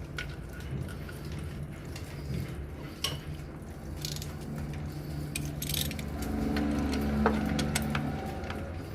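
Metal tools and parts clinking and rattling as they are handled in engine work, scattered sharp clicks, over a steady low hum that swells for a couple of seconds near the end.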